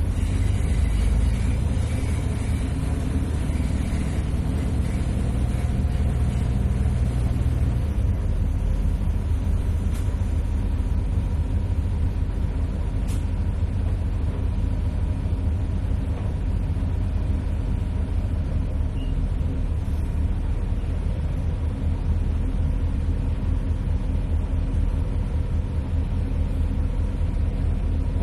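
Steady low rumble of a motor vehicle running, engine and road noise without a break.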